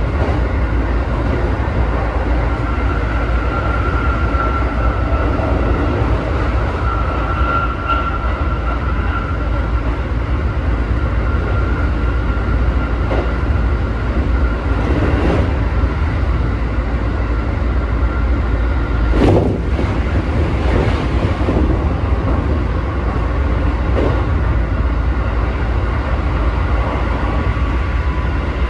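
Keikyu 1000 series electric train with Mitsubishi full-SiC VVVF drive running at speed between stations, heard inside the car: a steady rumble of wheels on rail with a thin steady whine over it through the first two-thirds. About two-thirds of the way through comes one sharp clack, the loudest moment.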